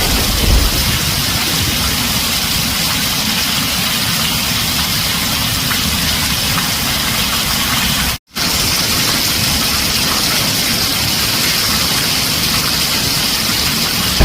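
Heavy rain falling steadily on a tin roof, an even hiss with no thunder, cut by a split-second dropout to silence about eight seconds in.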